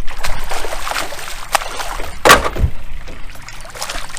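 Water splashing and sloshing against an aluminum canoe, with one louder splash or knock a little over two seconds in.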